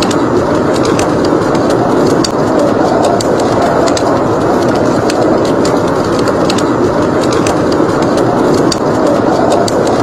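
Steady blizzard wind blowing, with the irregular snaps and crackles of a log fire burning in a fireplace, several clicks a second.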